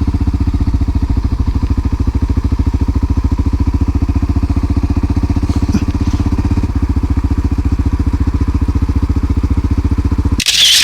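1988 Honda NX650 Dominator's single-cylinder four-stroke engine running steadily at low revs, its firing pulses even and unchanging. Near the end it cuts off abruptly with a brief rush of noise.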